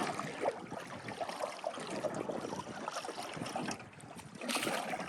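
Water splashing and trickling around a canoe, with a louder surge of splashing about four and a half seconds in.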